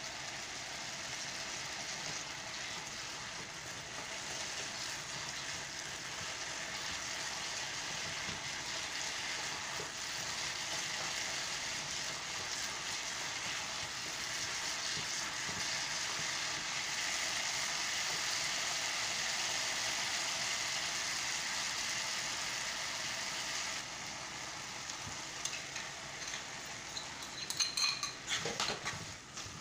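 Diced potato sizzling as it fries in a non-stick frying pan, a steady hiss. Near the end comes a run of sharp clicks and scrapes as the pan is stirred and egg is poured in.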